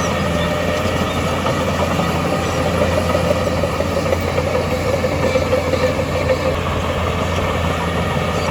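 Diesel engine of heavy earthmoving machinery running steadily, getting a little louder and stronger in the middle before settling back.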